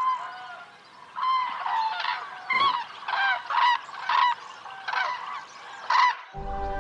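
Common cranes calling: a run of loud honking calls, some overlapping, each rising then falling in pitch. These are the shouts of cranes at the start of the mating season. Music comes in near the end.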